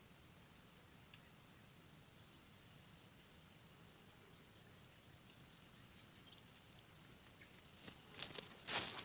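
Faint, steady high-pitched insect chorus, two unbroken shrill tones held throughout. Near the end a few short sharp noises break in.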